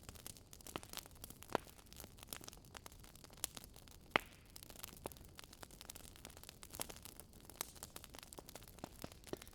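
Wood fire crackling: irregular sharp pops and snaps over a faint hiss, the loudest snap about four seconds in.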